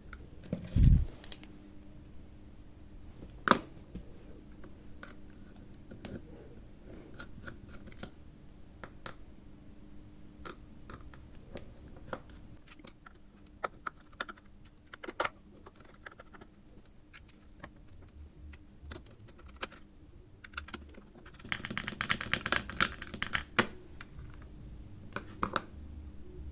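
Small tools and parts being handled on a workbench: scattered light clicks and taps, a low thump about a second in, and a quick flurry of clicking and rattling about 22 seconds in, over a faint steady hum.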